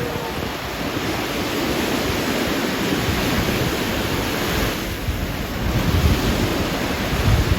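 Sea waves washing onto a sandy beach, with wind buffeting the microphone in gusts that grow stronger near the end.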